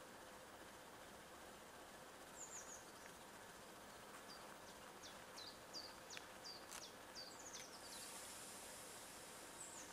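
Quiet outdoor ambience with a small bird giving short, high, falling chirps, a quick run of them in the middle, over a faint steady hum.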